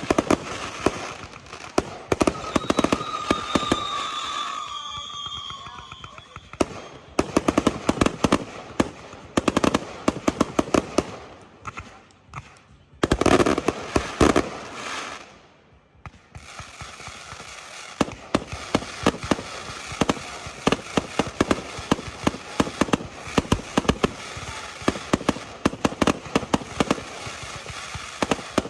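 Fireworks display: a rapid run of bangs and crackling reports. A loud cluster of bursts comes about halfway through, then a short lull, then dense, fast crackling.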